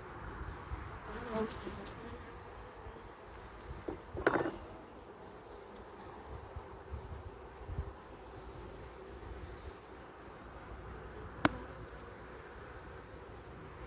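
Honeybees of a heavily populated colony humming steadily from an open hive, with a knock about four seconds in and a sharp click later on.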